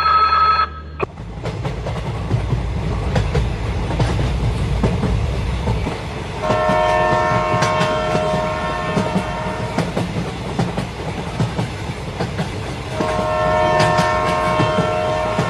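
A train rumbles along with wheels clattering on the rails, and a locomotive horn sounds two long blasts: one about six seconds in, the other near the end.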